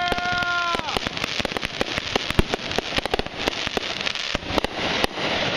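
Fireworks going off, a dense run of rapid crackling pops and bangs, with a steady whistle at the start that drops away about a second in.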